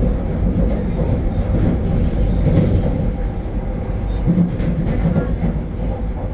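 Vande Bharat Express electric train running at speed, heard from inside the coach: a steady rumble of wheels on rail, with a few faint clicks over the track in the middle.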